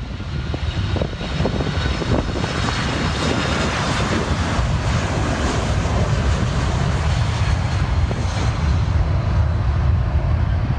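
Large jet airliner's engines close by, a loud low rumble with a rushing hiss on top that swells over the first couple of seconds and then holds steady.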